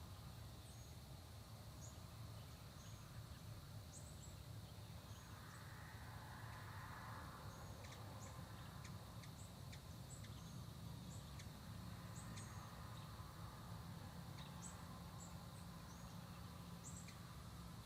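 Faint early-morning countryside ambience: a steady, high insect drone with many short, high bird chips and calls scattered throughout, over a low rumble. A soft rush swells up and fades out in the middle.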